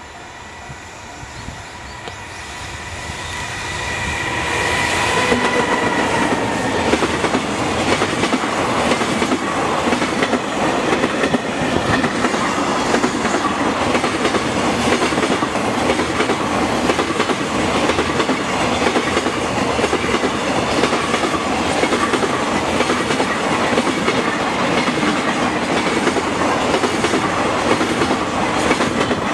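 Electric-locomotive-hauled container freight train drawing near and passing close by. A steady whine is heard as it builds in level over the first few seconds, then the wagons' wheels clatter rhythmically over the rail joints as the long train rolls past.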